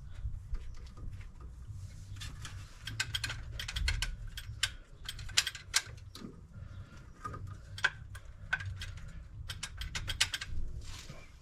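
Scattered sharp metallic clicks and knocks of a distributor being worked back into place in a small-block Chevy engine, over a low rumble.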